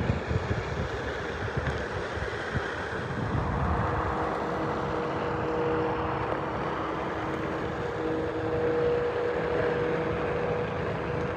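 Pickup truck under way: steady engine and road rumble, with a steady hum coming in about four seconds in.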